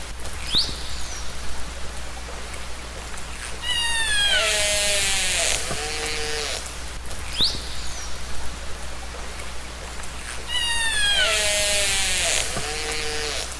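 Killer whale (orca) calls recorded underwater: a short rising whistle, then a run of falling, buzzy pulsed calls with lower answering calls. The same sequence repeats about every seven seconds.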